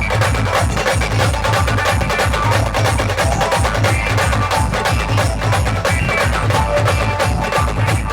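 Live band music: a fast, driving beat of bass drum and percussion under a sustained melody.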